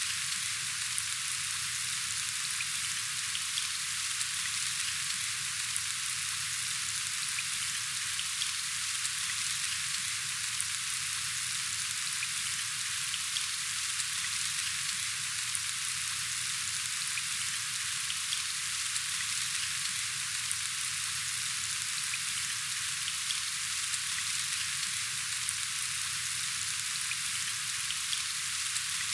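Steady rain falling: an even hiss of many fine drops, unchanging throughout.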